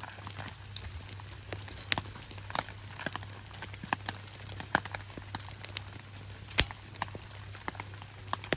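Rain on a tarp: irregular sharp drops tapping the fabric, a few a second, over a steady hiss of rainfall, mixed with the crackle of a wood campfire.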